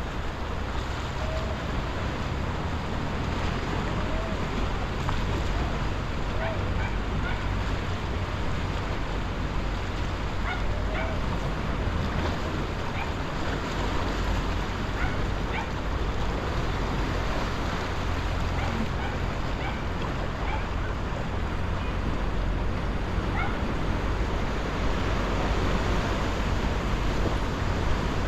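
Steady ocean surf washing against a breakwater jetty, an even rushing noise with a low rumble underneath. A few faint short calls are scattered through it.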